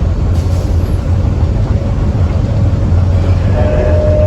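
Railway car rolling along the track with a loud, steady low rumble. A thin, steady high tone joins near the end.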